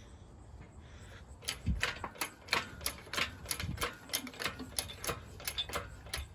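A run of sharp clicks, about three to four a second, beginning about a second and a half in, with a low thump or two among them.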